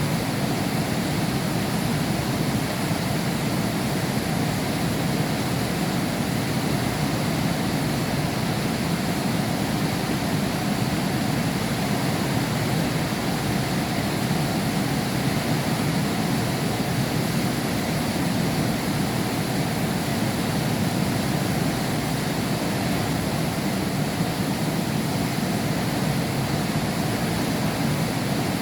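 Heavy rain heard through a closed glass window: a dense, steady rush with its weight in the low range and no breaks or separate drops standing out.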